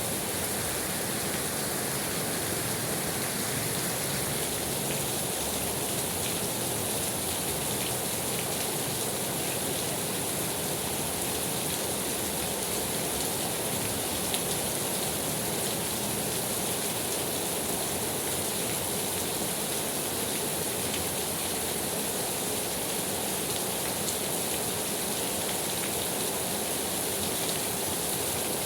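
Steady rain falling, an even hiss with a few faint drops ticking through it.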